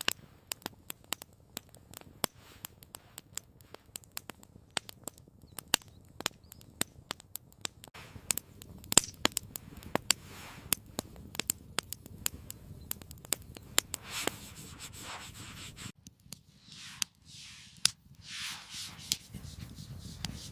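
Wood campfire crackling, with irregular sharp pops and snaps throughout and a few short hissing rushes in the second half.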